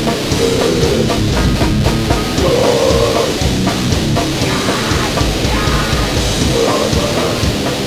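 A grindcore noise band playing loud, dense, distorted music, with a drum kit hammering fast throughout.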